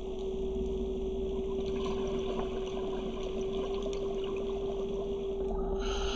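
Underwater ambience picked up by a diver's camera: a steady hum with one clear tone, under a haze of water noise with faint crackling ticks. Near the end a louder rush of hissing noise sets in.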